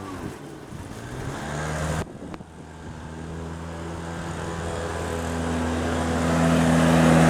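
Gas-powered leaf blower engine running steadily. It dips suddenly about two seconds in, then grows steadily louder.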